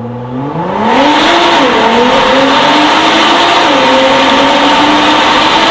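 BMW M3's V8 with an Armytrix aftermarket exhaust accelerating hard: the engine note climbs, becomes very loud about a second in, dips once and climbs again, then holds high.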